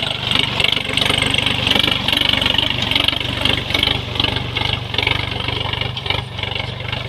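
Sonalika DLX RX 50 4WD tractor's diesel engine running steadily, its firing pulses even throughout, with a steady hiss above.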